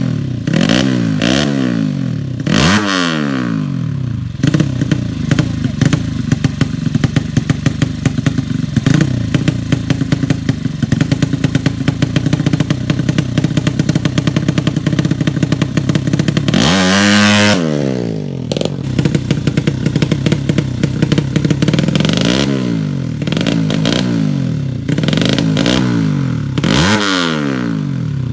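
200 cc drag-racing motorcycle engine being tuned, idling with a fast, even beat and blipped repeatedly, its pitch shooting up and falling back. There are quick revs near the start, a longer, higher rev about two-thirds in, and a run of short blips near the end.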